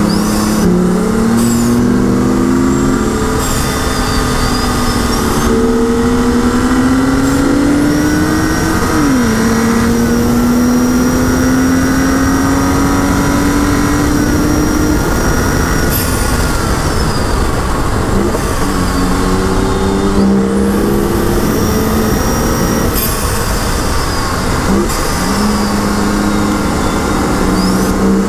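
The 2011 BMW 135i's turbocharged inline-six, heard from inside the car, pulling hard at full throttle. Its pitch climbs, drops sharply at an upshift from third to fourth about nine seconds in, then climbs again to near 6,000 rpm. Past the middle it falls away as the car slows for a corner, and it picks up again near the end.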